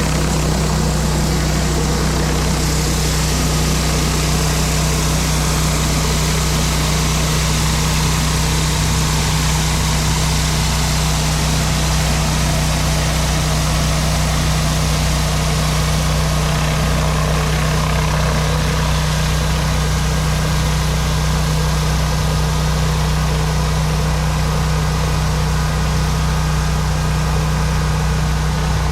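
Pressure washer running steadily, its engine holding an even drone under the hiss of high-pressure water spraying on concrete.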